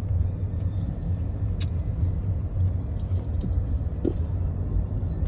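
Car running, heard from inside the cabin as a steady low rumble, with one sharp click about a second and a half in.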